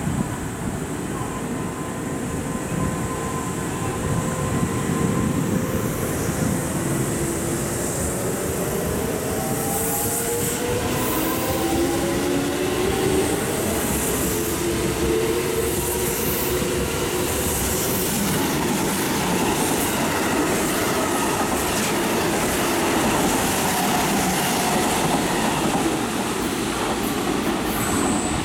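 Kintetsu electric commuter trains running through the station: a steady loud rumble of wheels on rail with clattering over the joints. About eight seconds in, a whine rises in pitch and then holds for a few seconds.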